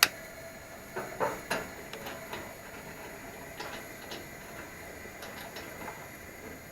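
Antique Coleman white-gas camp stove being handled while its second burner is lit. There is a sharp metallic click, then scattered lighter clicks and knocks from its controls, over the steady hiss of the burner that is already lit.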